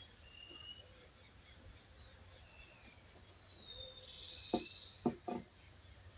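Forest birds singing: short, thin, high whistled notes and slurs, with a louder falling call about two-thirds of the way in. Three sharp clicks come close together near the same moment.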